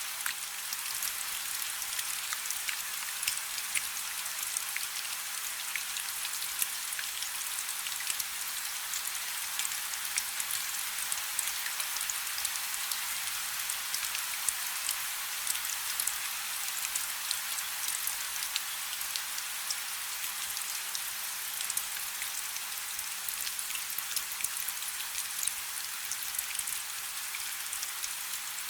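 Steady rain falling on a river: a continuous high hiss with many small drop ticks and patters, even throughout.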